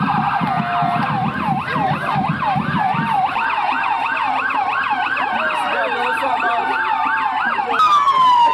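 Emergency-vehicle sirens in a rapid yelp, several overlapping, about three sweeps a second. Near the end a louder siren switches to a slow wail that falls and then rises.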